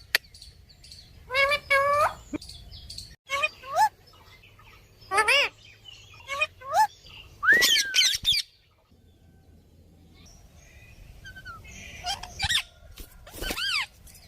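Rose-ringed parakeet (Indian ringneck) giving short, shrill calls, one to three at a time, with a lull of a few seconds past the middle.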